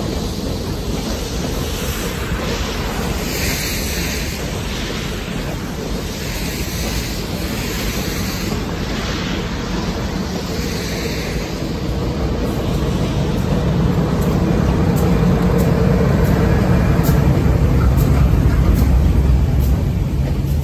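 Stainless-steel passenger cars of a train rolling past beneath, the wheels and cars rushing by in repeated swells for about ten seconds. Then the train draws away and a low rumble of wind on the microphone grows louder near the end.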